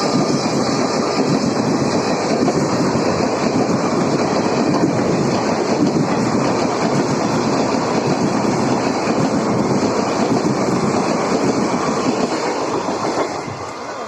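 Express passenger train passing close by, its coaches' wheels clattering over the rail joints in a steady roar that fades away near the end as the last coaches go past.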